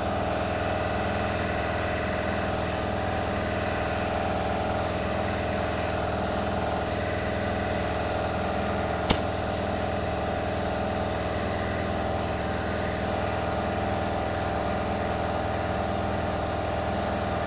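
Air compressor running steadily while a large rear tractor tire is aired up, with one sharp click about halfway through.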